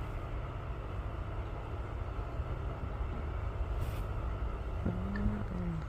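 Steady low rumble of a motor vehicle running, with a short low hum near the end.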